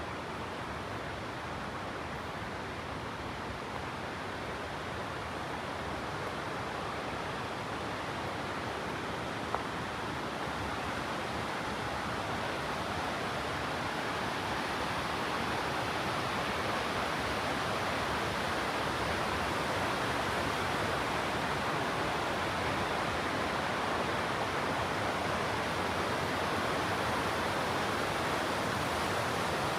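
Steady rush of flowing water that grows slowly louder, with one small click about ten seconds in.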